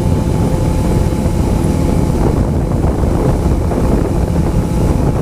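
Heavy wind buffeting on the microphone of a moving Honda CBR motorcycle, a dense low rumble, with the engine's steady drone faintly underneath.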